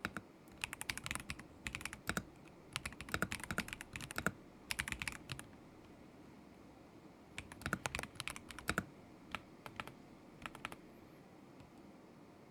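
Typing on a KZZI K75 Pro mechanical keyboard with Moment linear switches: quick runs of key clicks in two bursts, with a pause of about two seconds between them and quiet near the end.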